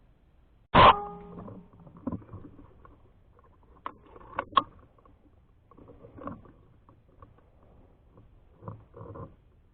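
A single air rifle shot just under a second in, with a brief ringing tone after the crack. Several lighter clicks and knocks follow over the next few seconds.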